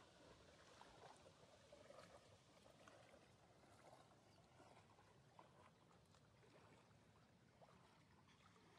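Very faint sloshing and splashing of water as someone wades through a shallow river, barely above near silence.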